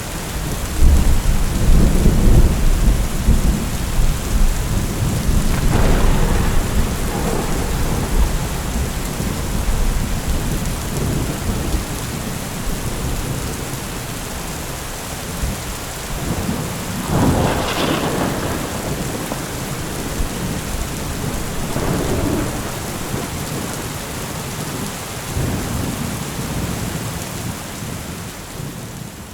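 Steady rain with thunder: a long low rumble near the start, then several shorter thunder claps, the sharpest about halfway through. The sound fades out near the end.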